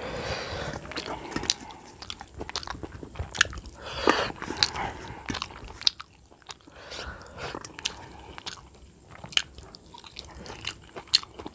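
A person chewing a mouthful of rice and curry close to the microphone, with many sharp clicks and wet mouth noises. Fingers gather the last rice on a stainless steel plate.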